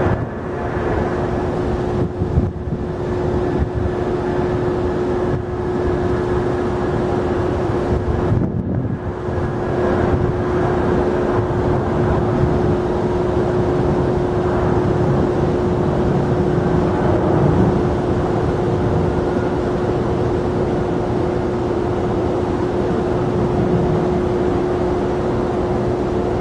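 Jet airliner engines running: a steady rushing noise with one constant humming tone.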